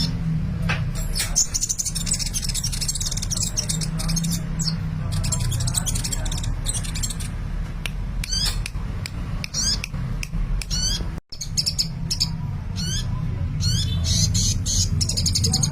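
Sunbird (Indonesian 'kolibri') singing busily: rapid, high-pitched sliding chirps and fast trill bursts, heard over a steady low hum.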